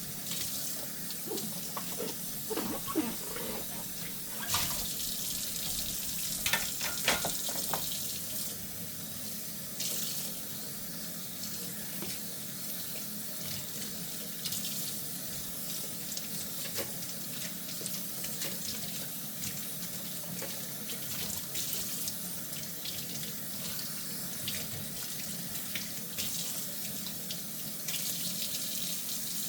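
Kitchen faucet running steadily into a sink while dishes are hand-washed, with a few light clinks and knocks of dishes in the first several seconds.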